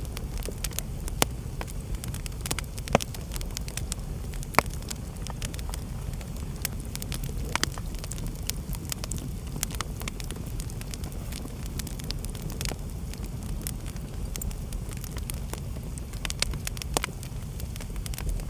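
Wood fire crackling in a fireplace: scattered sharp pops and snaps over a steady low rumble, with a few louder pops in the first five seconds.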